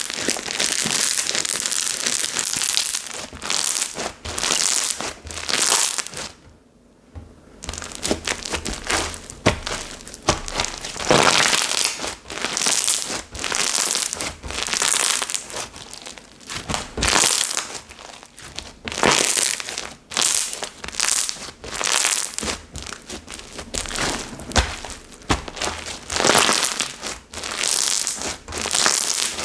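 Hands squishing, pressing and stretching a batch of seureureuk slime that has been left sitting for a day, a continuous run of short wet, noisy squishes with a brief pause about seven seconds in.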